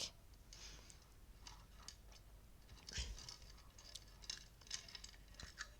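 Near silence with faint, scattered small clicks and light rustles, about a dozen spread irregularly across a few seconds.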